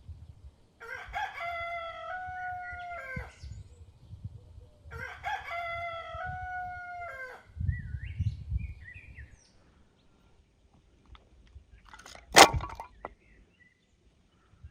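A rooster crowing twice, each cock-a-doodle-doo about two and a half seconds long. A single sharp knock near the end.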